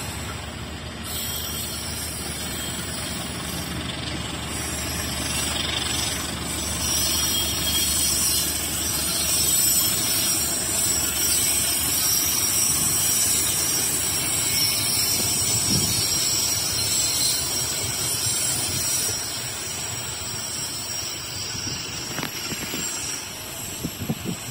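Passenger train departing, its coaches rolling steadily past on the rails: a continuous rumble with a high hiss that swells in the middle and eases off. A few sharp clicks come near the end.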